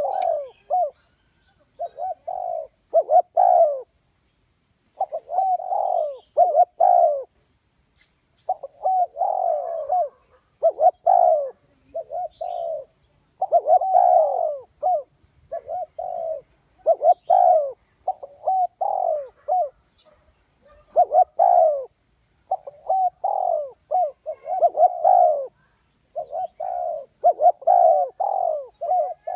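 Spotted dove cooing over and over, its calls coming in quick groups of coos with short pauses between them. This is the call played as a lure to draw in wild doves.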